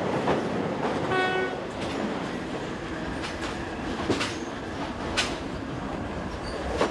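Passenger train running, heard from a carriage: a steady rumble of wheels on the rails with irregular clacks over the rail joints, and a short horn note about a second in.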